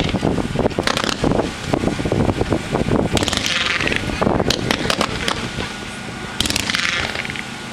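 Winda consumer fireworks going off: a rapid run of shots and bangs, with three stretches of dense crackling hiss, about a second in, around three seconds in and near the end.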